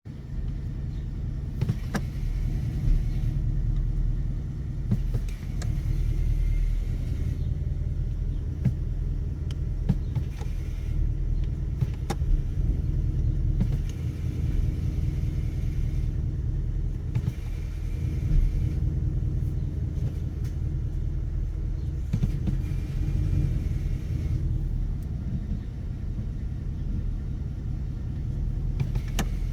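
Car in motion with a steady low rumble and a fainter high whine that comes and goes every few seconds. The owner takes this for a strange noise from the transmission.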